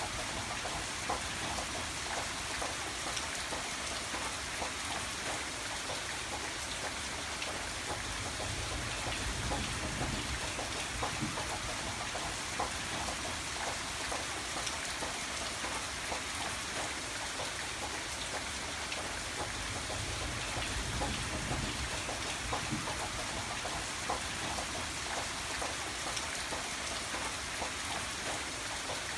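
Steady rain: an even hiss with a dense patter of drops hitting a surface.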